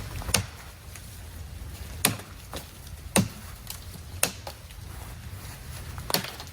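Wood being chopped with an axe or hatchet: five sharp strikes, one to two seconds apart, over a low steady rumble.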